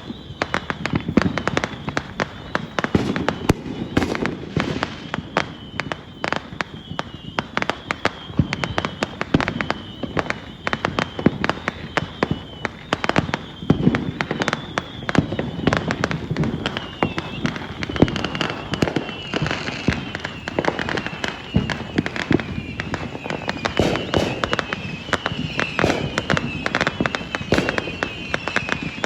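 New Year fireworks and firecrackers going off in a dense, continuous barrage of crackles and bangs, many per second. A high, wavering whistle runs through it, dipping in pitch again and again in the second half.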